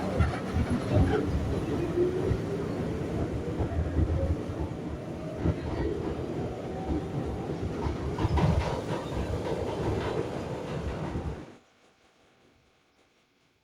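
New York City subway train running along the track, its wheels clicking over the rail joints, with a rising whine a few seconds in. The sound cuts off abruptly near the end.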